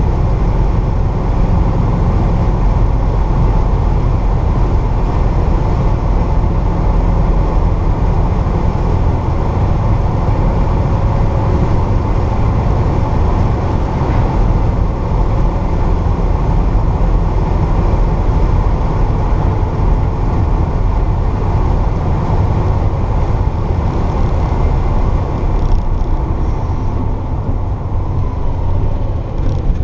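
1964 Pontiac GTO's 389 Tri-Power V8 running steadily while the car is driven, with road noise; the engine is freshly rebuilt and on a break-in drive.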